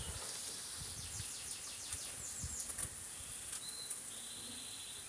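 A bird chirping: quick runs of short, falling high chirps about a second in and again past the middle, then a held high note near the end, over a steady high insect hum.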